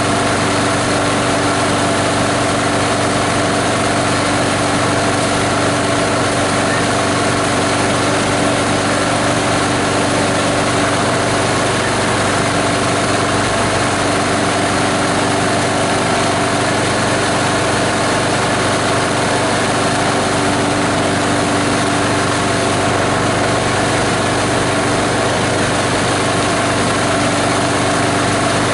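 Plastic grinder's 18 HP diesel engine running steadily at an even speed.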